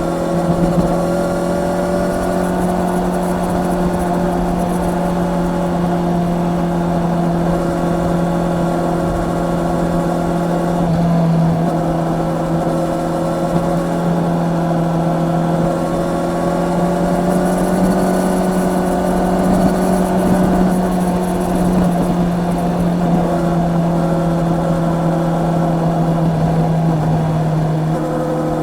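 Honda CB650R motorcycle's inline-four engine running under steady throttle while riding, with wind rumble. The engine note holds nearly level, shifting slightly in pitch about eleven seconds in and again near the end.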